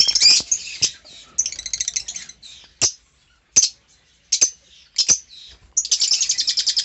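A flock of caged lovebirds chirping and chattering in short, sharp, high calls. About six seconds in, this turns into a dense, rapid run of chirps.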